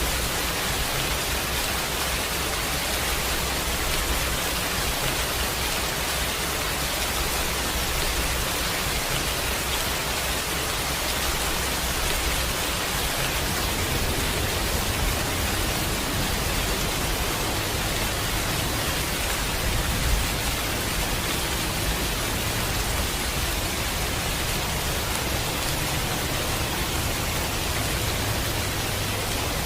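Steady heavy rain, an even hiss. A low rumble of thunder comes in about halfway through and carries on underneath.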